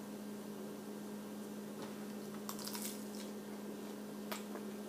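A steady low electrical hum, with a few faint crisp clicks as a breaded chicken McNugget is bitten and chewed, a cluster about two and a half seconds in and one more near the end.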